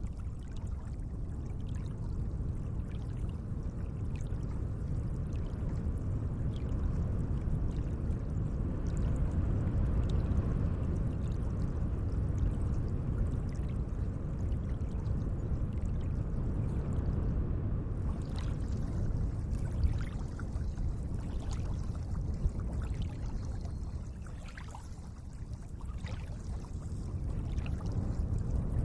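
Gentle lake water: a steady low rush of moving water with small scattered splashes and drips, easing off briefly about three-quarters of the way through.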